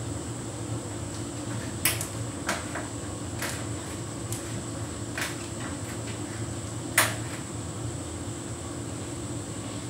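Hotpoint heat pump tumble dryer running on a synthetics cycle: a steady machine hum with irregular knocks and clicks from the tumbling drum, the loudest about seven seconds in.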